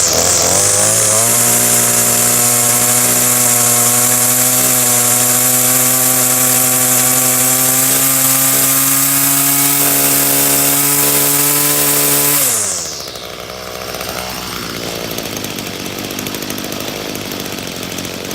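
Stihl FS 46 curved-shaft string trimmer's two-stroke engine, cold-started, running at high throttle at a steady pitch; about twelve seconds in the throttle is let go and the engine falls away in pitch and level.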